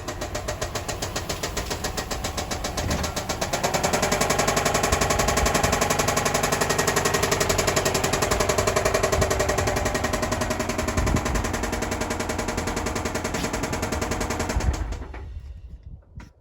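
2005 Subaru Outback XT's turbocharged 2.5-litre flat-four running with a rapid, heavy rod knock. It grows louder for several seconds in the middle, eases off, and cuts off near the end.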